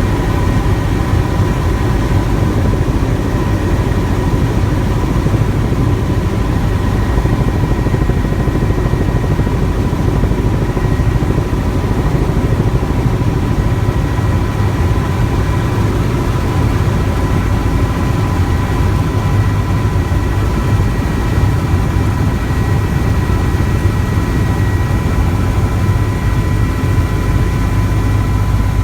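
Helicopter in flight heard from inside the cabin: a steady, loud rumble of rotor and engine with a constant high whine over it, unchanging throughout.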